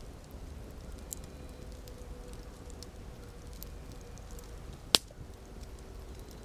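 Campfire burning, with scattered small crackles over a low steady rumble and one loud sharp pop about five seconds in.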